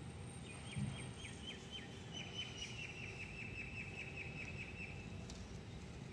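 A bird calling: a few spaced chirps, then a quicker run of repeated chirps lasting about three seconds, over a steady low background hum. A soft thump just under a second in.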